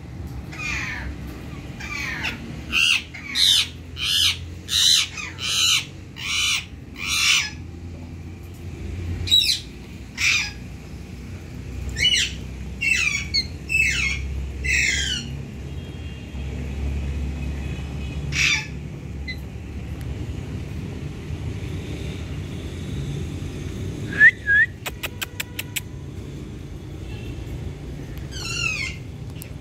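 Parakeets giving harsh screeches that slide down in pitch, a quick run of them over the first several seconds, then in scattered clusters. A short run of light clicks comes about three quarters through, over a steady low hum.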